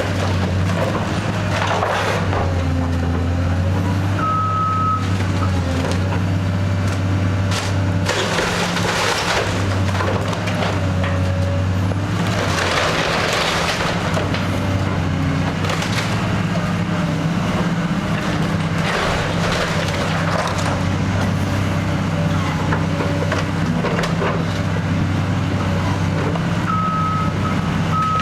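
Heavy demolition machinery tearing down a house: a diesel engine runs steadily under load while the building crunches and breaks apart in repeated surges every few seconds. A back-up alarm beeps briefly about four seconds in and again near the end.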